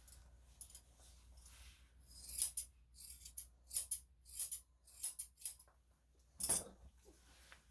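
Grooming scissors snipping a small dog's hair in short, sharp cuts, often two in quick succession. About six and a half seconds in there is one louder, fuller rustle.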